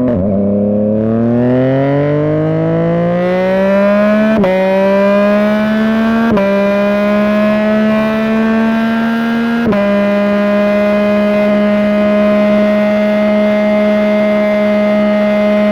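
A 2021 Yamaha MT-09's 890 cc inline-three engine, through an aftermarket Dominator GP3 exhaust, accelerating with rising pitch. It makes three quick upshifts, each marked by a brief cut and a small drop in pitch, then holds a steady pitch at cruising speed.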